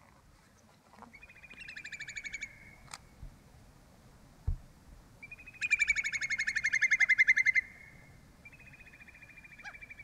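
A bird calling in three bouts of a fast, rattling trill, about a dozen notes a second. The middle bout is the longest, about two seconds, and the loudest.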